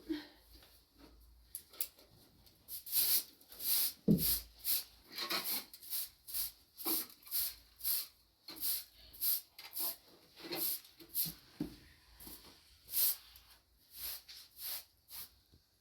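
A run of short rubbing or brushing strokes, about one to two a second, starting a couple of seconds in and stopping shortly before the end.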